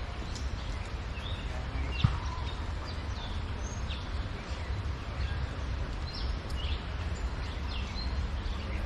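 Small birds chirping, with many short chirps and quick calls scattered throughout, over a steady low rumble. A single sharp click comes about two seconds in.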